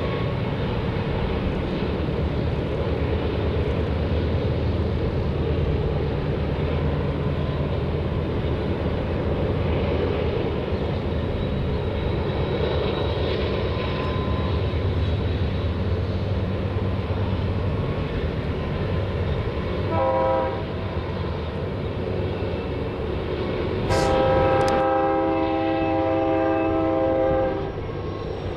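A steady heavy rumble, with a short horn blast of several notes at once about two-thirds of the way through and a longer blast of the same chord-like horn near the end.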